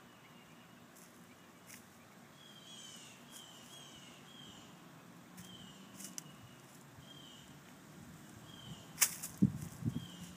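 Quiet outdoor background with a bird giving short falling chirps every second or so and a few faint clicks. Near the end comes a sharp snap, then low thumps and rustling in dry leaf litter.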